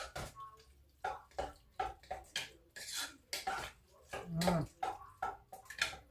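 A spoon stirring soup in a cooking pot, clinking and scraping against the pot about three times a second, with a brief low hum about four seconds in.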